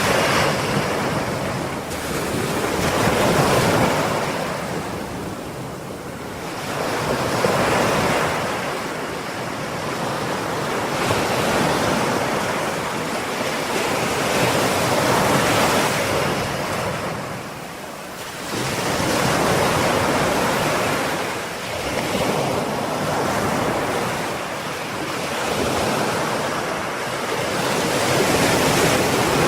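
Ocean waves breaking and washing on a shore, a steady rush of surf that swells and eases every few seconds, with a deeper lull near the start and another about two-thirds of the way through.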